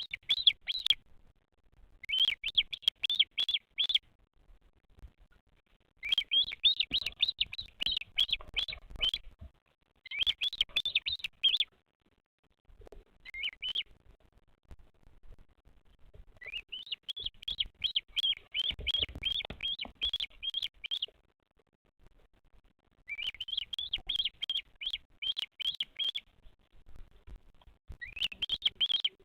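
A bird giving quick runs of high chirps, about three a second, in bouts of one to four seconds separated by short pauses, with faint rustling and knocks during the bouts.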